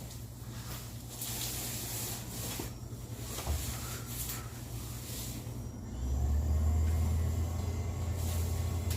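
A steady low mechanical hum with scattered hiss; about six seconds in, a louder, deeper hum sets in and holds.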